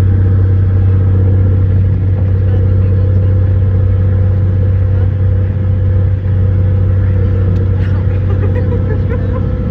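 Boat engine running steadily at an even speed, a deep, constant hum with a steady higher tone over it.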